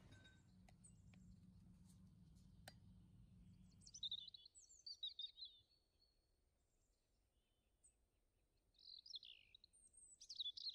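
Faint bird chirps in two short bouts, about four seconds in and again near the end. Before the first bout a low steady hum fades out.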